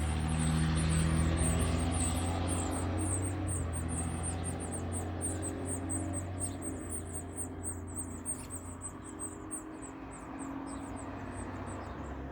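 Baby birds begging: rapid, very high-pitched peeps repeating several times a second, growing fainter toward the end. A low rumble sits underneath, strongest at the start and dying away.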